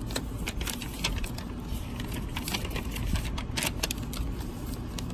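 Light clicks and crackles of paper and packaging being handled, over a steady low rumble of an air conditioning unit running.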